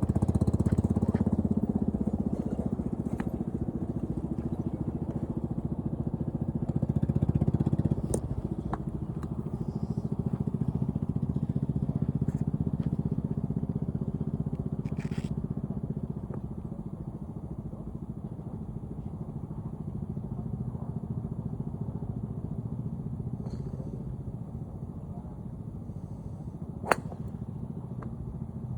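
A motor engine runs steadily, louder in the first half and easing off after about sixteen seconds. A few sharp clicks cut through it, the loudest near the end.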